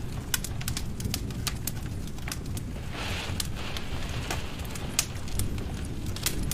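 Wood fire in a fireplace crackling: irregular sharp pops and snaps over a low steady rumble of the flames.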